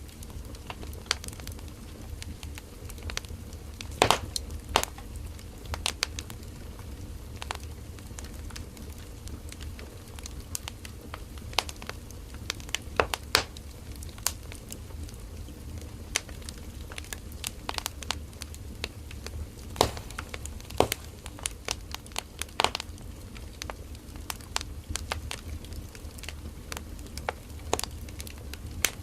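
Firewood burning in a campfire: irregular crackling and snapping, with a few louder pops, over a low steady rumble of the flames.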